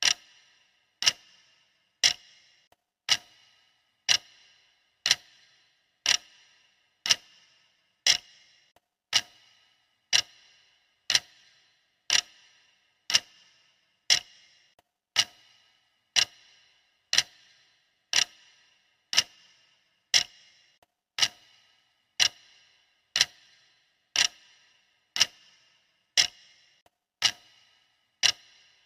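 Clock ticking steadily, about one tick a second, each tick a sharp click with a short ringing tail.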